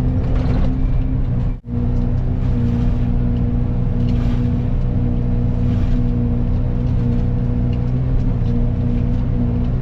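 Excavator engine and hydraulics running steadily under load while driving a Fecon forestry mulcher head, a constant drone at a few fixed pitches. The sound cuts out for a split second about a second and a half in, then resumes unchanged.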